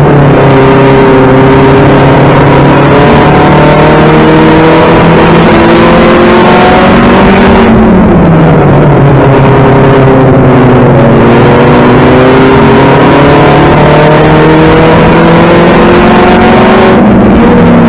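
1992 Toyota Celica GT race car's four-cylinder engine heard from inside the caged cockpit, loud and held at high revs. The revs dip about eight seconds in and again near the end as the car lifts off for the turns, then climb back.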